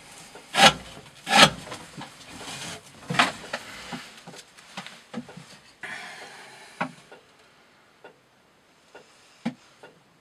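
A D2 steel knife blade slicing through thick 20 mm rope in quick strokes: three sharp cuts in the first two seconds and another around three seconds, then softer rubbing and scattered light clicks that die away after about seven seconds.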